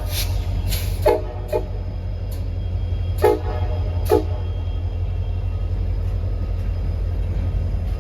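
Diesel locomotive horn sounding short toots, three quick blasts about one, three and four seconds in, as a horn salute, over a steady low rumble.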